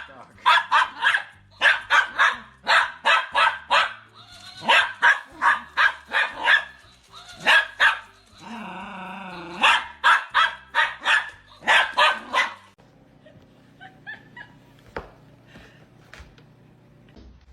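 A dog barking over and over, about two to three barks a second, broken just past the middle by one longer, wavering sound. The barking stops about three quarters of the way through, leaving only faint scattered sounds.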